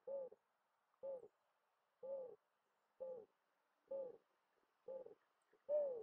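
A bird's short hooting notes, repeated evenly about once a second, seven in a row, each rising and falling slightly in pitch; the one near the end is the loudest.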